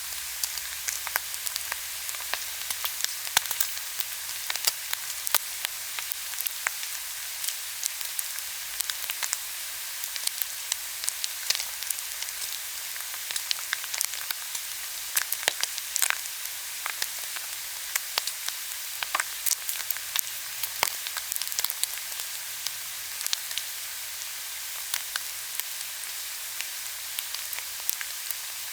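Pork belly grilling in its own fat: a steady sizzling hiss with frequent sharp crackles and pops of spitting fat.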